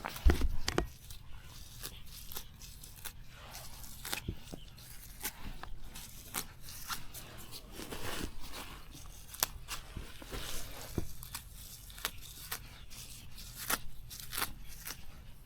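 Plant stems and leaves being torn and snapped by hand: a run of irregular crisp snaps and tearing sounds, with a heavier thump right at the start.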